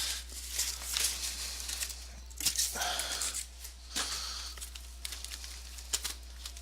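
Boxes of trading cards and their plastic wrap handled on a desk: scattered rustling, crinkling and a few light knocks, over a steady low hum.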